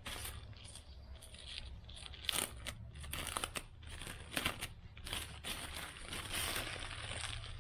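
Packaging wrap crinkling and rustling irregularly as a portable Bluetooth speaker is unwrapped by hand.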